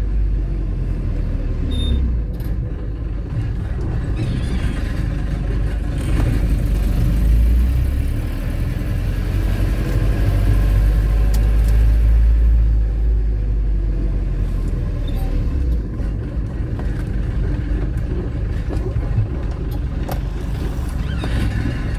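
A car being driven: a steady low rumble of engine and road noise, rising and falling slightly with no sharp events.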